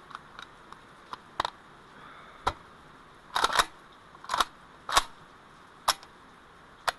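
Heavy raindrops striking the camera's case, heard as irregular sharp taps, about seven, some coming in quick clusters.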